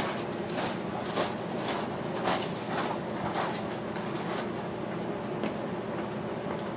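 Irregular clicks and short scrapes of hand work on the cab's sun visor mounts, with a screwdriver and the visor hardware, over a steady background hum.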